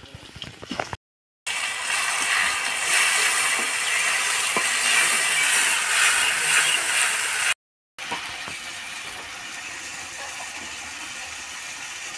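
Onions frying in hot oil in an aluminium kadai, sizzling loudly while a metal spatula stirs and scrapes against the pan; after about eight seconds the sizzle settles to a quieter, steady hiss.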